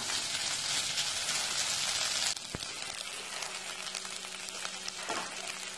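Squid pieces sizzling in a hot nonstick pan as they are stirred with a silicone spatula. A little over two seconds in the sizzle drops off suddenly to a much quieter hiss, with a single click soon after.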